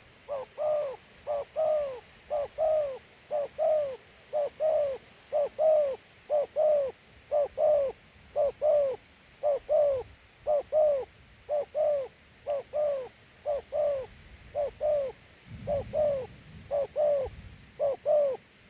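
A dove cooing its 'gù' call over and over, in quick two-note phrases, each note rising and falling, about one phrase a second. A brief low rumble sounds near the end.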